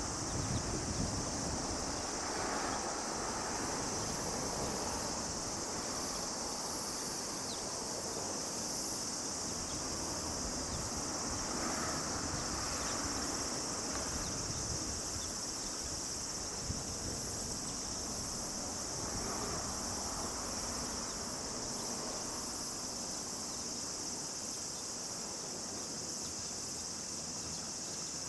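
Steady, unbroken high-pitched chirring of a chorus of insects such as crickets, with soft swells of lower rushing noise, like wind, every few seconds.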